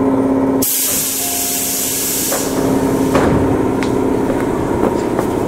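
Tobu Railway electric train with a steady hum, cut about half a second in by a sudden loud burst of compressed air hissing that fades over about two seconds. A few sharp clicks follow.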